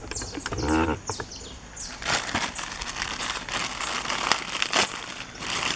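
Plastic packaging crinkling and rustling in irregular short bursts as it is handled.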